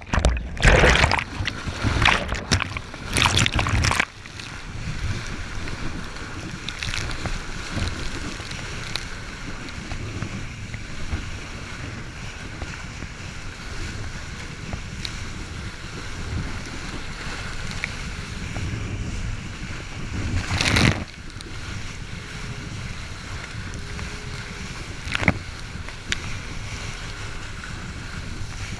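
1200cc Yamaha WaveRunner jet ski running on open water, with rushing water and wind on the microphone. Loud splashing in the first few seconds, then a steadier rush, with sharp bursts of spray or wind about 21 and 25 seconds in.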